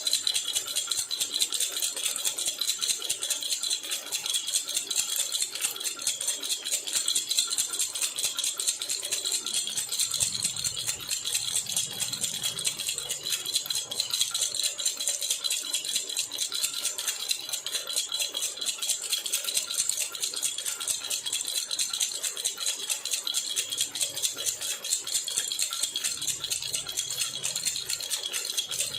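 Metal baby rattle (jhunjhuna) shaken steadily and rapidly, a dense run of fast high jingling clicks.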